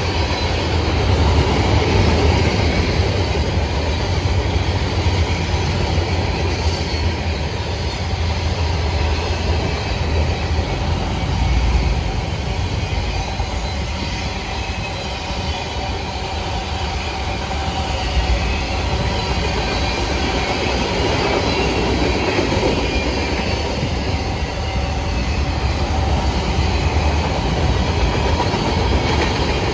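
Freight cars of a mixed manifest train rolling past: a steady rumble and clatter of steel wheels on the rails.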